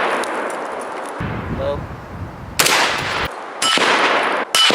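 5.56 AR-15 rifle firing three shots about a second apart, each a sharp crack followed by a long fading echo. The tail of an earlier shot is still dying away at the start.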